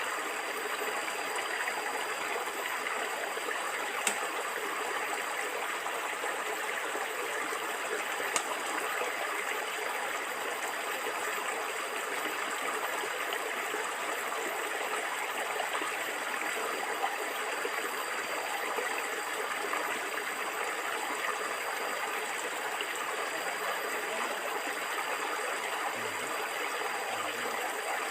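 Stream water flowing and gurgling steadily, with two faint clicks in the first few seconds.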